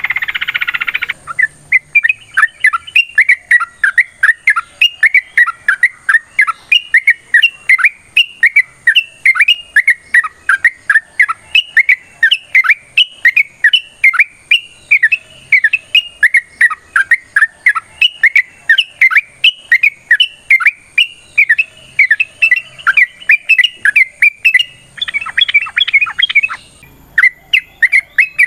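Yellow-vented bulbul (trucukan) singing a long run of short, sharp chirps at about four a second, with denser chattering at the start and again near the end.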